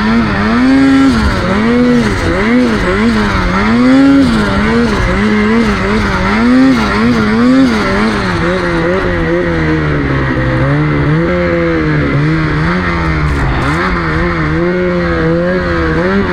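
Snowmobile engine revving up and down again and again as the throttle is worked, then running steadier at a lower pitch from about eight seconds in.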